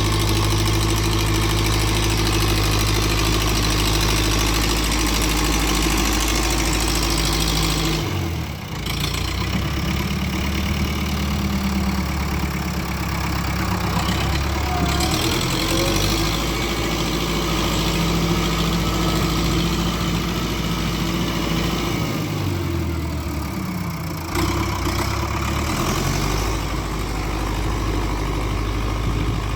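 Renault 681.4S tractor's MWM diesel engine running while pulling tillage gear, its engine speed dropping and picking up again about eight seconds in and once more in the last third.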